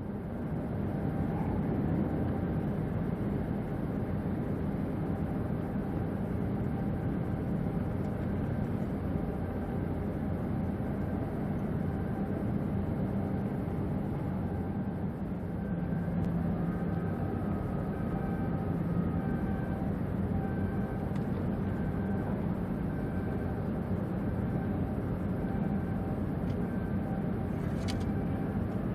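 Large ferry's diesel engines and machinery droning steadily, a low rumble with faint steady tones above it. A brief thin high sound comes near the end.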